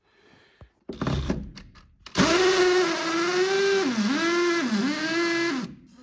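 Power drill running at speed for a few seconds after a short rattle. Its pitch dips twice as the motor bogs under load, as when cutting into material, and then it stops.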